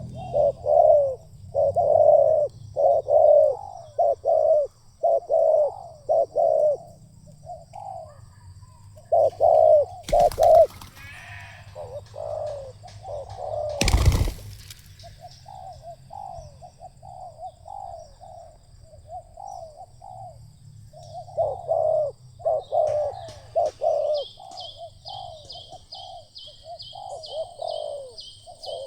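Spotted doves cooing repeatedly in rhythmic phrases of low, hollow notes. Two brief knocks come about ten and fourteen seconds in, and a fast high-pitched chirping starts a little past halfway.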